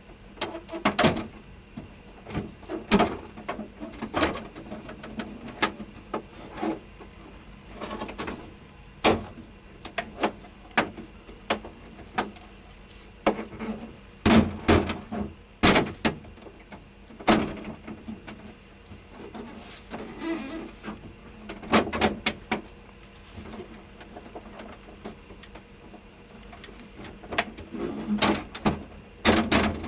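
Irregular knocks, clicks and clatter of hard parts being handled as a portable air conditioner's casing is taken apart, coming in bursts with short pauses between.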